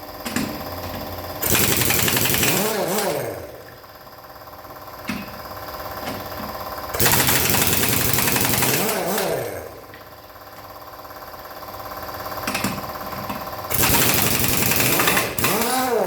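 Pneumatic impact wrench on a heavy truck's wheel nuts, rattling in three bursts of about two seconds each. Each burst ends in a whine that rises and falls as the wrench spins. A steady lower hum sounds between the bursts.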